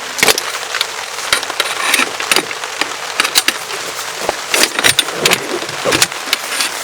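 Rain falling on a DD Tarp: a steady hiss with irregular sharp taps of drops striking the fabric, several a second.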